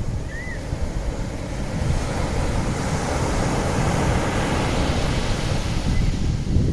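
Rough sea surf breaking and washing in, the wash swelling through the middle, with wind buffeting the microphone.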